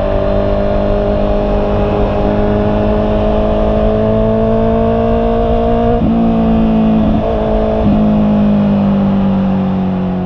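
Honda CB650R's inline-four engine running under way, its note rising slowly, then breaking briefly three times between about six and eight seconds in.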